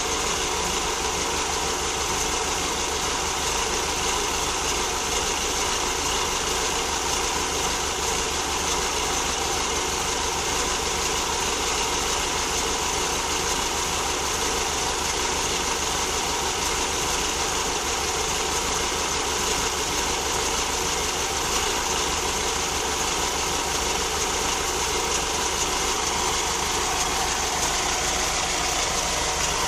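Air-cooled 1600 flat-four engine of a 1965 VW Type 3 Notchback idling steadily at an even speed, without revving.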